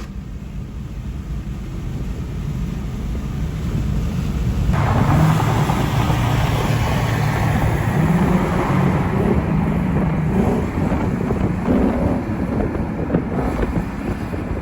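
Car engine accelerating hard, louder and louder, then about five seconds in a sudden loud rush of engine and wind noise that holds at full throttle as the car pulls at high speed.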